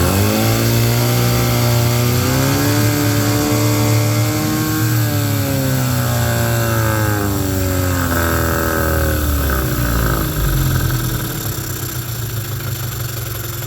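Mercury 15 hp two-stroke outboard in gear, snapped to fast throttle: the engine revs up quickly and holds high revs, then is throttled back and drops to idle near the end. The rise is smooth with no dip, as the motor is being tested for a reported bog under throttle in gear, which it does not show here.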